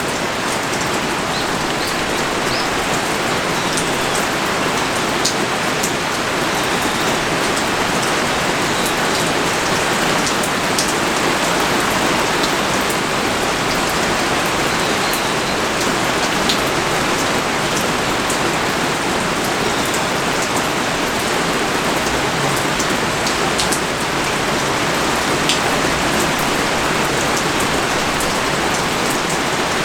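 Pouring rain falling steadily, a dense even hiss with scattered sharp drop taps close by.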